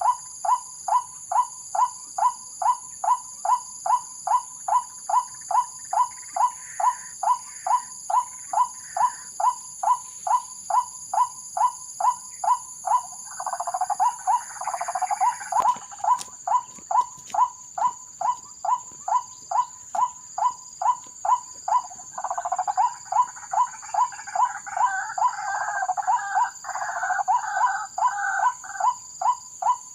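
Recorded white-breasted waterhen call played back as a lure: a short call repeating about twice a second with machine-like regularity. Twice a denser, warbling chatter in the same pitch range joins it for a few seconds, and steady high-pitched tones run underneath.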